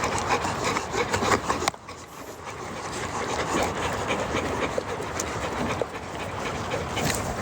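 Dogs panting and scuffling, with rough rustling and scraping of their movement; the sound drops off sharply a couple of seconds in, then builds back up.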